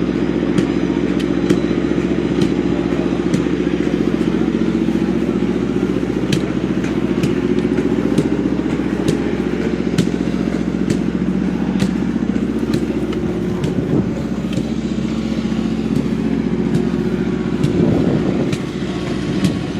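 Fordson Major diesel tractor engine running steadily, with sharp clicks over it; its note changes near the end.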